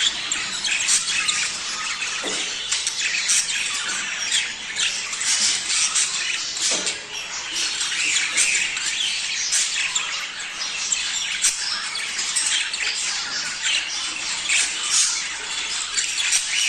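A group of budgerigars (budgies) chattering and squawking without pause, many short calls overlapping: the budgies' mating-season chatter.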